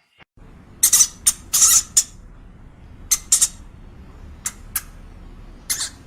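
A small animal's short, high-pitched squeaks or chirps, about ten of them in irregular clusters with gaps of up to a second.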